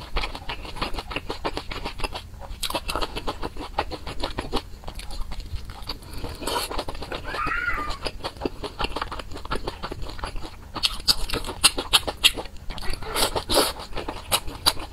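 Close-miked chewing of pan-fried dumplings: a continuous run of wet, sticky mouth clicks and smacks as the dumplings are chewed, with bursts of quicker clicking near the end.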